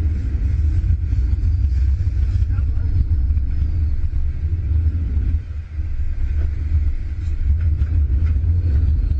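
Steady low rumble, with faint high gliding tones now and then.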